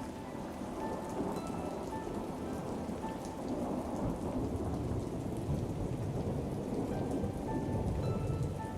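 Steady rain with a low rumble of thunder that swells in the second half. Faint, slow music notes sound softly beneath the rain.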